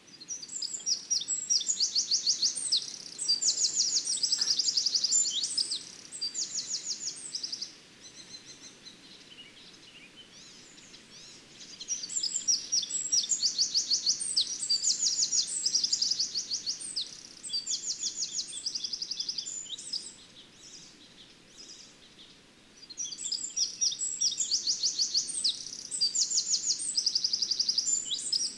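A songbird singing phrases of rapid, high trilling notes, each phrase lasting a few seconds, with short pauses between.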